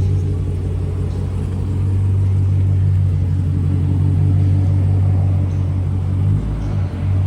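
Dodge Challenger with its muffler deleted running with a steady, deep exhaust drone, dipping briefly near the end.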